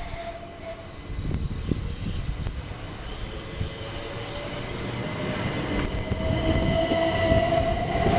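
An electric multiple-unit passenger train moving through the station, its rumble growing steadily louder. A motor whine rises slowly in pitch through the second half, as the train gathers speed.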